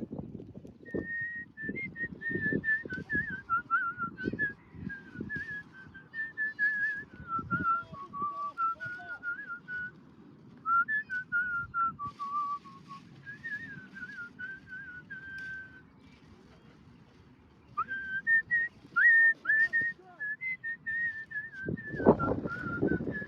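A person whistling a meandering tune, with pauses between phrases, over irregular low knocks and thuds of handling. The thuds get louder near the end.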